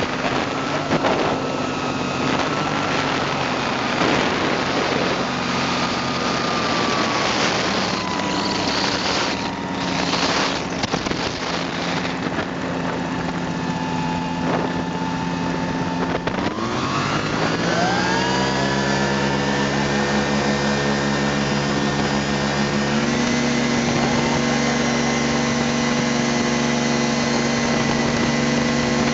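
Ultralight airplane engine running steadily, then speeding up sharply about two-thirds of the way through and holding at the higher speed, with a small further rise near the end.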